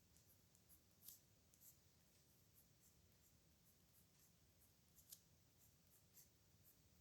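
Pen nib scratching across paper in handwritten strokes, faint, with a few sharper strokes about a second in and again about five seconds in.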